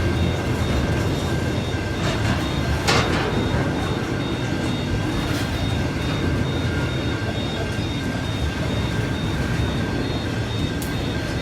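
A train running past with a steady rumble of wheels on the track, a sharp clack about three seconds in, and an evenly repeating high beeping throughout.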